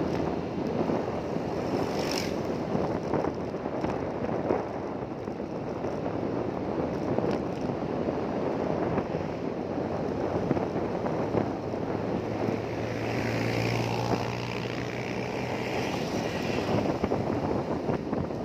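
An engine running steadily under way, with a low hum that holds one pitch for a few seconds past the middle.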